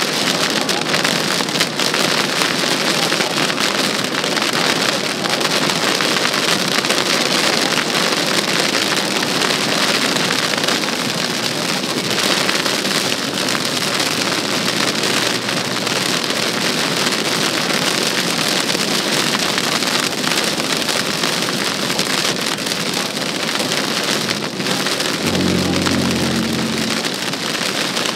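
Heavy rain on a moving car, heard from inside the cabin as a steady hiss. About three seconds before the end, a short low tone with a few overtones sounds for under two seconds.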